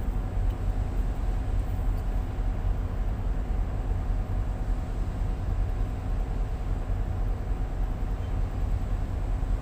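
Tugboat's diesel engine running steadily: a constant low rumble with a faint steady hum above it.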